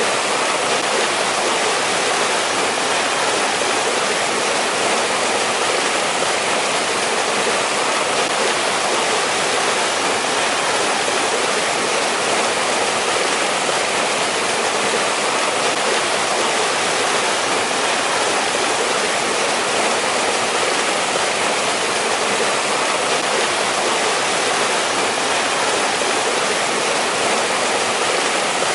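Mountain stream running over rocks, a steady, even rush of water with no change.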